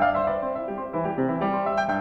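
Background music: solo piano playing a gentle melody of sustained notes.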